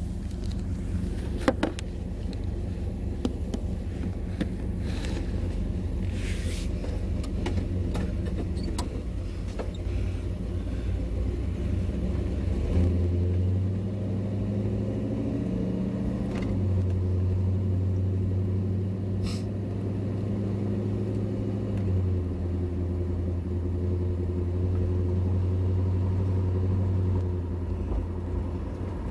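Engine of a 1967 Plymouth Belvedere II running with a low rumble, its engine speed stepping up and down several times through the second half.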